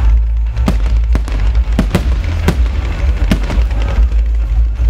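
Fireworks display: aerial shells bursting in rapid, irregular succession, about a dozen sharp bangs and pops over a constant deep rumble.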